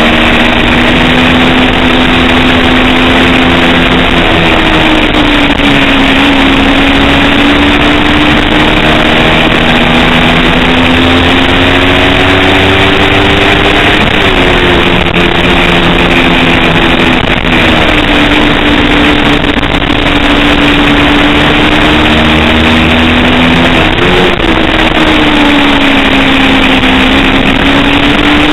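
250cc race motorcycle engine running hard around the track, its pitch slowly rising and falling through the corners, with sudden shifts in pitch about halfway through and again near the end as it changes gear. It is loud and continuous, with a steady rushing noise underneath.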